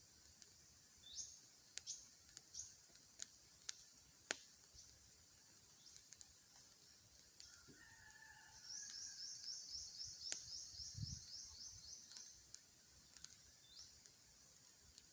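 Birds calling, faint: a few short, high, upward-sweeping chirps, and in the middle a fast trill of about a dozen high notes, roughly four a second, lasting some three seconds. Scattered sharp clicks are heard throughout.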